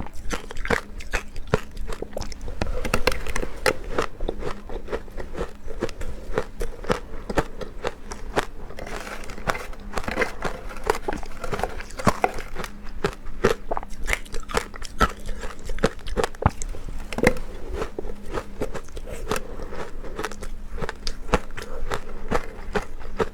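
Powdery ice being bitten and chewed close to the microphone: a dense, continuous run of crisp crunches.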